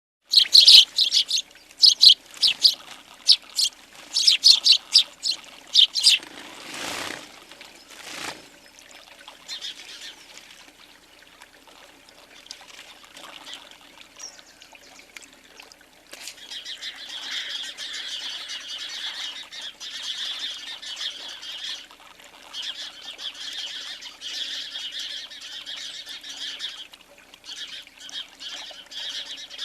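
Tree sparrows chirping loudly in quick series, then two brief whooshes a few seconds in. From about halfway, softer continuous twittering carries on.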